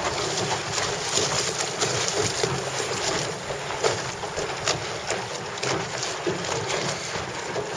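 Wind buffeting the microphone, a steady rushing haze broken by many short crackles.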